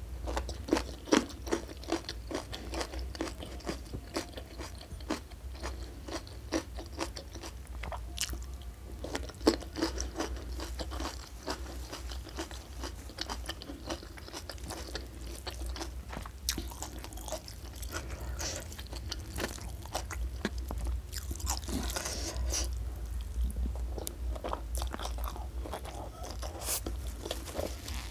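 Close-miked eating: a person chewing and crunching mouthfuls of food, with many irregular crisp clicks and smacks.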